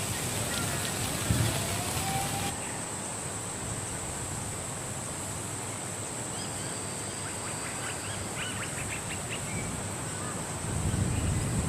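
Steady outdoor background hiss with a constant high-pitched whine, and a quick run of about eight short chirps or calls about eight seconds in.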